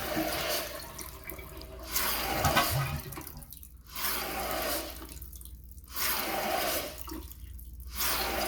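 Toilet tank fill valve short-cycling: water hisses into the tank in spurts that start and stop about every two seconds. This is the sign of a defective fill valve.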